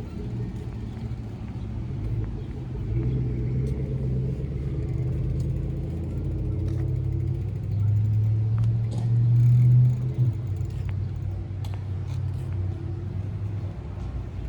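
A motor vehicle's engine running with a low, steady rumble; it grows louder about eight seconds in, then drops off suddenly about ten seconds in.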